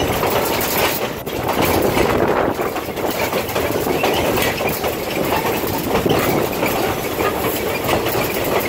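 Passenger train rolling along the track, heard from on board: a steady rumble and rattle of wheels on rail.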